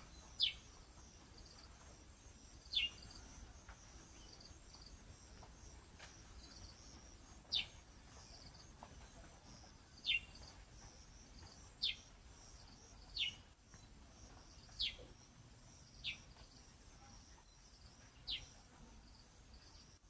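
A bird calling over and over, each call short and dropping sharply in pitch, about nine times, over a steady high pulsing insect trill.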